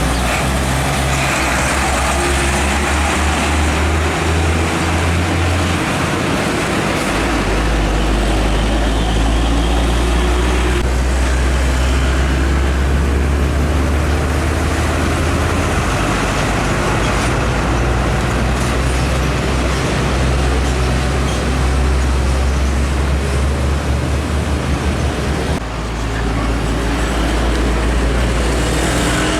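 Heavy diesel trucks driving past on a busy road, their engines droning low with tyre and traffic noise. The engine note changes a few times as different vehicles go by.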